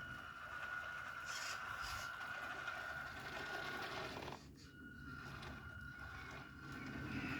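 Electric drive motor and gears of a radio-controlled model tractor running with a steady whine. It cuts out briefly about four and a half seconds in, then starts again.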